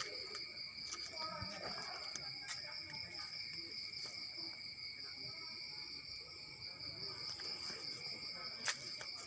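Crickets trilling steadily, with scattered faint clicks and knocks and one sharper knock near the end.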